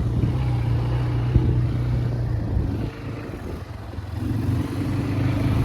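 ATV engine running under way, easing off about three seconds in, then picking up again.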